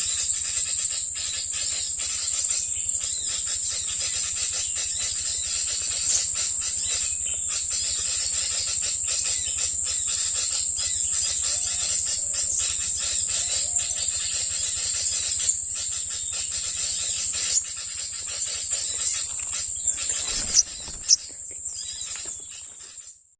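Steady, high-pitched insect drone, like cicadas, over outdoor hiss, with a few sharp clicks near the end before the sound cuts off abruptly.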